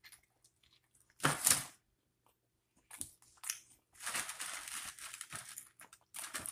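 Crinkling and crunching close to the microphone as snack food is handled and eaten: a short burst about a second in, then a longer crackly stretch from about four seconds in.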